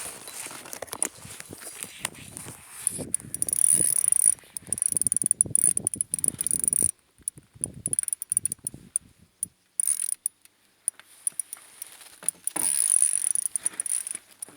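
Fishing reel working in bursts, with rapid ratcheting clicks and a high buzz from the drag as a large catfish takes line.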